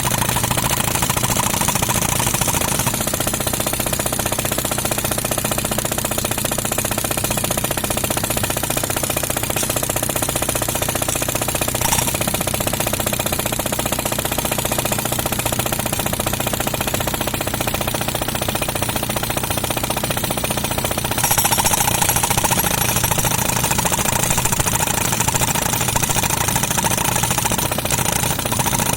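Pneumatic concrete breaker hammering steadily, with an air compressor's engine running underneath. The hammering gets a little louder and harsher about twenty seconds in.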